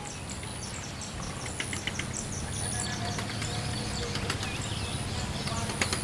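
Prenjak (prinias) chirping in a quick series of short, high notes, with a thin, high insect buzz.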